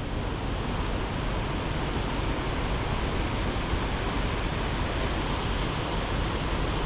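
Heavy wind blowing, a steady rushing noise with a strong low rumble that does not let up.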